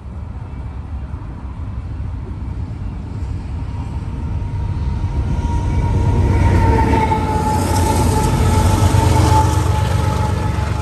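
A train approaching and passing: a low rumble grows louder over the first several seconds and holds, with a steady high tone over it in the second half, easing a little near the end.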